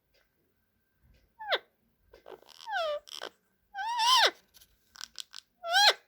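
Pet parrot giving a run of short calls, each dropping sharply in pitch, some of them raspy, with a few quick clicks just before the last call.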